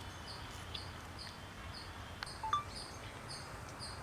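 Outdoor ambience: a high chirp repeating evenly about twice a second, like an insect, with a few short bird calls about two and a half seconds in.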